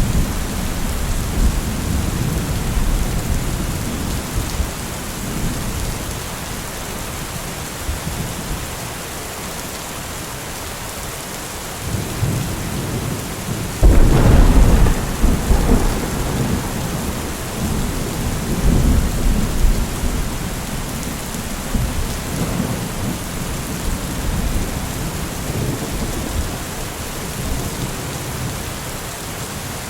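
Steady rain with rolling thunder. About halfway through a sudden, louder thunderclap breaks in and rumbles on for several seconds.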